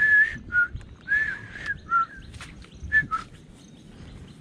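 A bird singing a series of short, clear whistled notes, some bending up and down in pitch, packed into the first three seconds.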